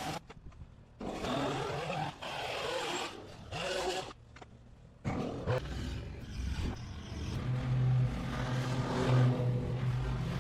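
Several short bursts of rushing noise, then a motor running steadily with a low hum from about halfway through.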